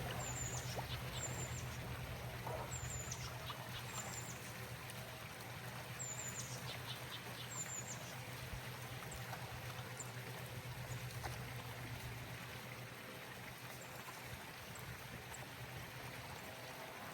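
A bird giving short, high, falling chirps, roughly one a second for the first eight seconds. Under it runs a steady hiss, with a low hum that fades out about halfway through.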